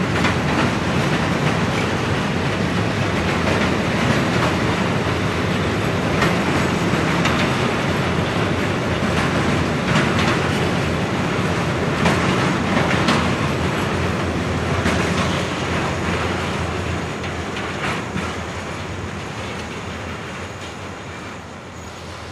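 Container-laden freight wagons rolling past: a steady rumble of wheels on rail with irregular clacks, fading over the last several seconds as the end of the train goes by.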